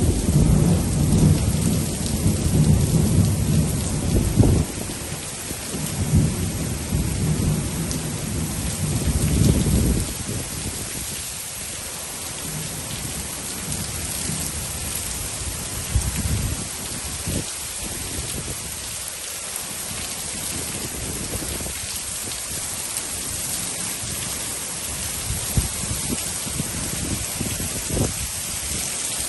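Steady rain falling during a thunderstorm, with a long low rumble of thunder for the first ten seconds or so that then dies away. A few brief knocks come later.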